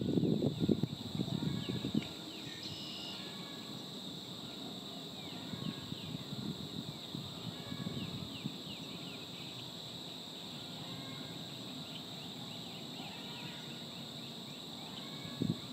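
Many small birds giving short, high, falling chirps over a steady high hum, with a few brief clearer calls about two and a half seconds in. A low rumbling noise sounds for the first two seconds, then stops.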